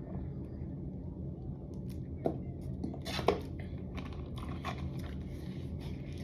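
Close-miked eating sounds: chewing with scattered small clicks and taps, the loudest just after three seconds in, over a steady low room hum.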